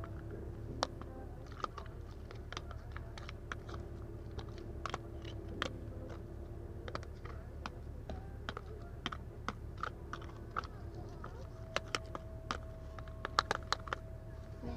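A spoon clicking and scraping in a bowl as a glue mixture for slime is stirred: irregular light clicks. A steady low hum runs underneath.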